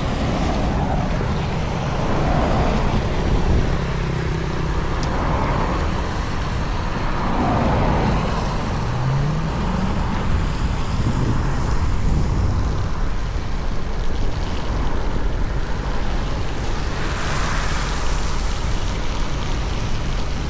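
Road vehicle running along a rain-wet road: a steady low rumble with tyre hiss, the engine note rising and falling about halfway through, and a louder hissing swell near the end.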